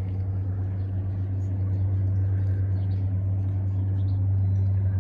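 Cessna floatplane's piston engine and propeller running with a steady low drone, growing slightly louder towards the end.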